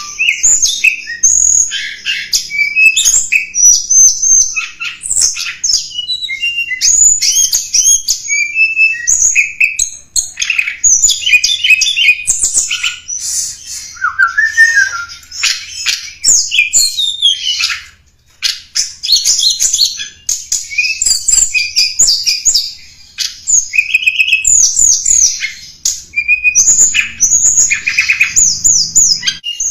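Song of the tledekan gunung, a small songbird, in a lure-call recording: rapid, high twittering chirps and trills in long, dense phrases, with short pauses about ten and eighteen seconds in.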